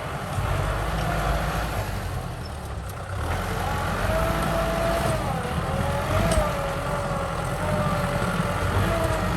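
Kubota M6040 tractor's diesel engine working under load while plowing: a steady low rumble with a wavering whine over it, growing louder about three seconds in.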